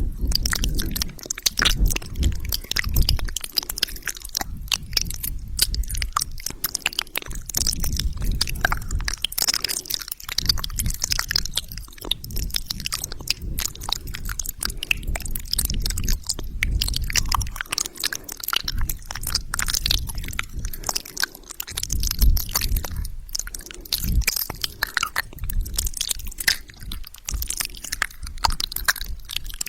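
Wet mouth sounds: a continuous, irregular run of quick clicks and smacks.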